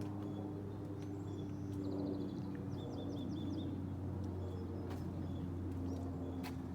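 Small birds chirping and giving quick trills, several times, over a steady low mechanical hum.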